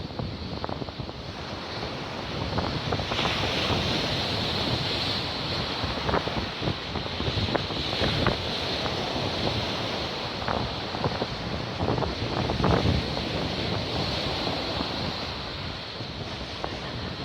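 Storm surf breaking and washing on the shore, with strong wind buffeting the microphone. The surf noise grows louder about three seconds in.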